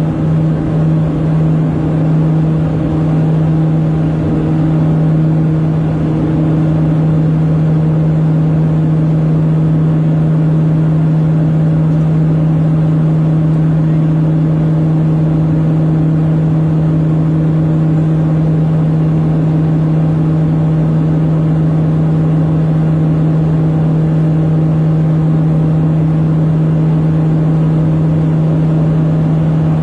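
Small propeller aircraft's engines and propellers droning steadily under climb power, a strong low hum. The hum wavers for the first couple of seconds, then settles into a steady drone.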